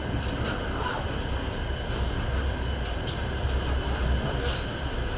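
Passenger train running, heard from inside the carriage: a steady low rumble of wheels on rail, with faint clicks now and then.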